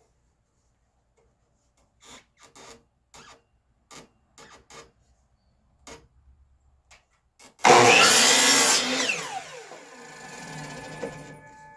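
Scattered knocks of boards being handled, then a power miter saw makes a quick cut, loud for about a second, and its blade winds down with a falling whine.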